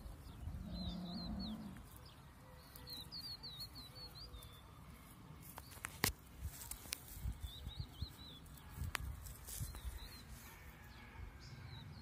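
A small songbird singing short, high twittering phrases, repeated several times with pauses between, faint over a low rumble and a few sharp clicks.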